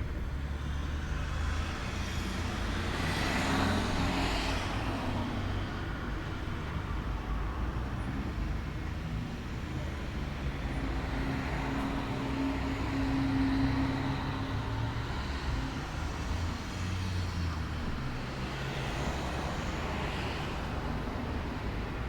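Outdoor ambience with a steady low rumble of road traffic, with vehicles passing by, one about three seconds in and another near the end, and a steady engine hum in the middle.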